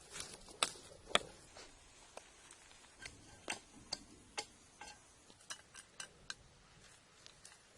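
Irregular sharp clicks and light taps, one or two a second, the loudest about a second in.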